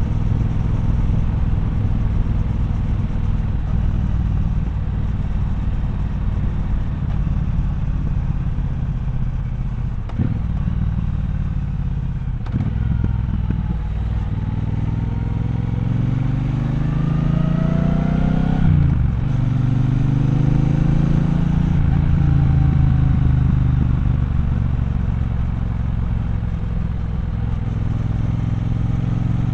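Triumph Bonneville Bobber's 1200 cc parallel-twin engine running steadily at low revs, then accelerating about halfway through: its pitch climbs, drops sharply, climbs again and settles back to a steady run.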